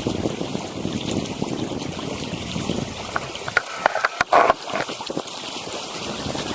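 Wind buffeting the microphone over water splashing and trickling along the hull of a small sailing dinghy under way, with a short burst of splashing and sharp knocks about four seconds in.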